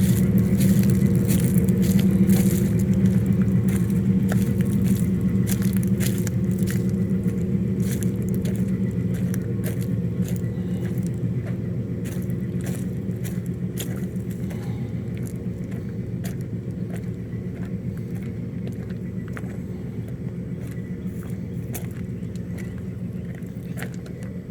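A 7.5-inch gauge ride-on train running along its track: a steady low rumble with many sharp clicks, growing gradually quieter.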